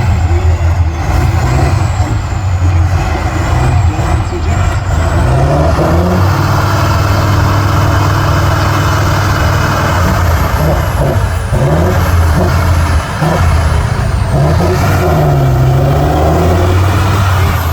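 Heavy off-road trial truck's engine working hard under load, its pitch rising and falling as it is revved repeatedly, with a faint high whine above.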